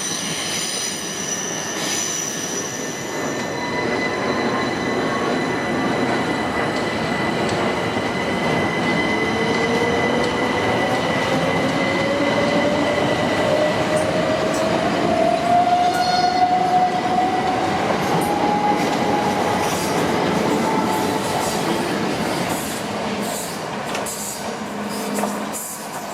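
Electric multiple-unit train on the move, its wheels squealing at first, then a motor whine that rises steadily in pitch. A run of clicks from the wheels over the rail joints comes near the end.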